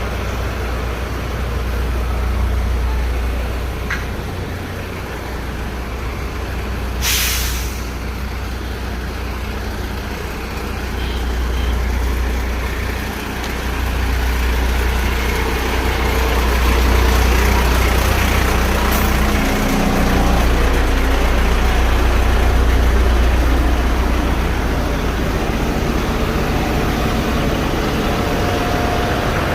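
Large truck's engine running with a deep, steady rumble, and a short hiss of air brakes about seven seconds in.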